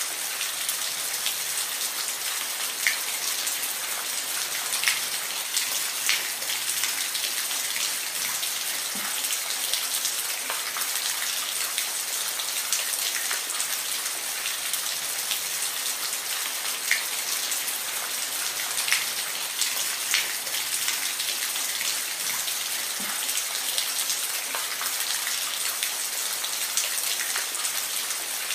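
Steady rain falling, a continuous hiss with individual drops ticking sharply on a nearby surface every so often.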